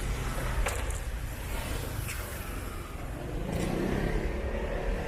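City street traffic: cars running steadily, with three short sharp clicks spread through it.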